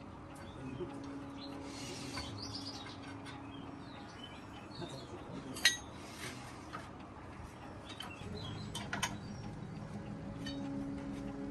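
Small birds chirping in the background over a faint steady hum, with a few sharp clicks and taps, the loudest about five and a half seconds in and a few more near nine seconds.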